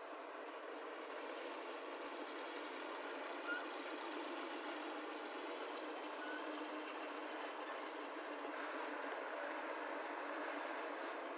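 Diesel engines of excavators and a soil lorry running steadily while earth is loaded, with one brief sharper sound about three and a half seconds in.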